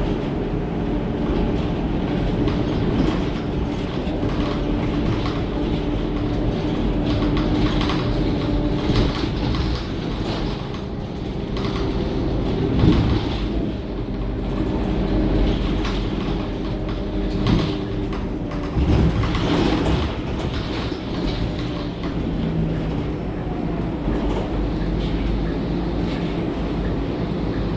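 Scania K230UB single-deck city bus driving along, its diesel engine running steadily with a shifting engine note, amid body and cabin rattles. A few sharp knocks and jolts come through from the road about halfway through.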